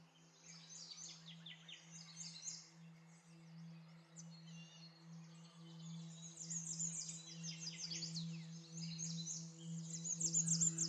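Background ambient music: a steady low drone with soft sustained tones, layered with many quick bird chirps that grow busier and louder in the second half.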